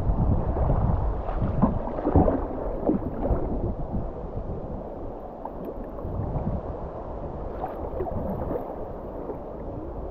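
River water rushing and gurgling around a small kayak, with a few short splashes in the first few seconds, then settling to a quieter steady wash.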